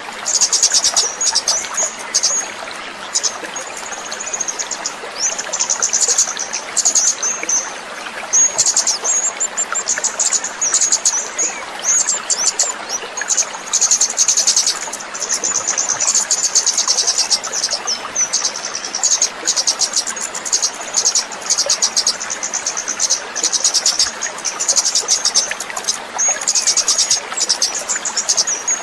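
Fast, high-pitched chirping trills in runs with short pauses, over the steady rush of trickling water: a nature soundscape used as bird-therapy audio.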